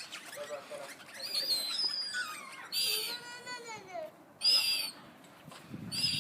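Wild parrots calling at close range: sliding whistled notes and two loud harsh squawks, about three and four and a half seconds in.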